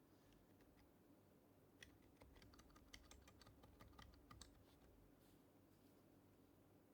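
Quiet typing on an HHKB Professional HYBRID Type-S keyboard, whose Topre switches are silenced. A few soft isolated keystrokes come first, then a quick run of keystrokes starting about two seconds in and lasting under three seconds.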